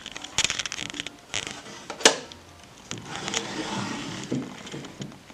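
Small objects handled and a wooden sewing-cabinet drawer pushed shut and another pulled open, with light rustling and clicks and one sharp wooden knock about two seconds in.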